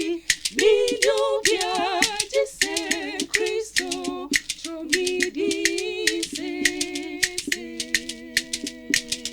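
Voices singing a cappella in close harmony, holding chords without clear words, with sharp percussive clicks keeping time throughout.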